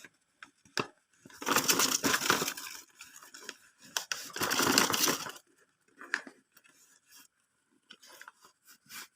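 Bird-shipping packaging being torn open by hand: two long ripping strokes, with light rustling and small clicks between them.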